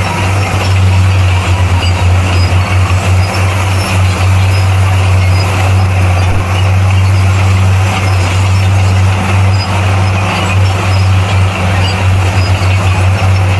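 Bulldozer's diesel engine running with a loud, steady low drone.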